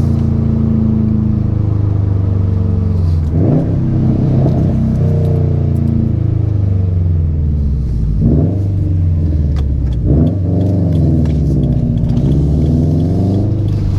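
2019 Subaru WRX STI's turbocharged 2.5-litre flat-four running through a Remark catback exhaust with muffler deletes, giving the Subaru rumble. The note falls and rises in pitch as the car is driven, with three short breaks about three and a half, eight and ten seconds in.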